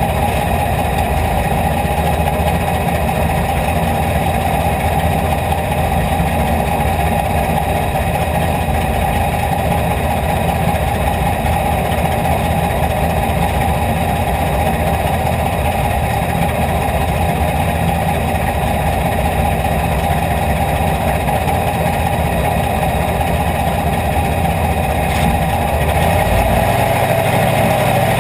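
IMCA Hobby Stock race car's V8 engine idling steadily, heard from inside the cockpit. Near the end its low note changes and grows a little louder as the car starts to pull forward.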